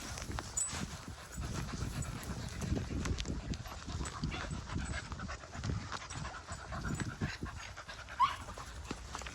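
Small dogs panting close by, in quick uneven breaths. A short, sharply rising squeak about eight seconds in.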